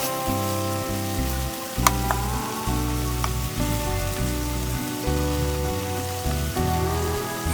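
Steady sizzle of food frying in a pan under background music with a stepping bass line and held notes. A few sharp clicks come about two seconds in and again a little later.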